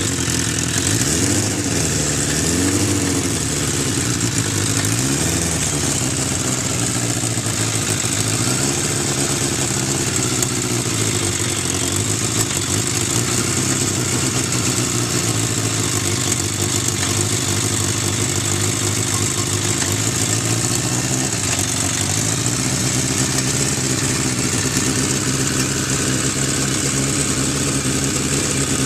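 Suzuki motorcycle engine running: revved up and back down a few times in the first several seconds, then idling steadily.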